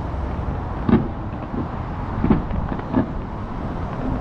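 Fireworks going off: three sharp booms, about a second apart, over a steady low rumble.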